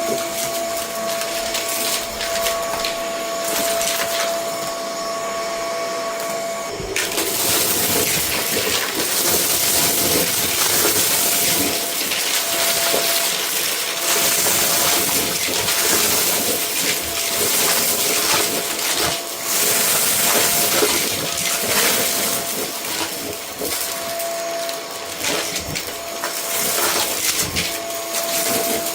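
Vacuum cleaner running with a steady motor whine, picking up a debris mix from a rug: dense crackling and rattling of particles drawn into it starts about seven seconds in and carries on.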